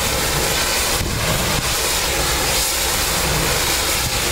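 Pressure washer running, with a steady hiss of water spray under a low mechanical drone.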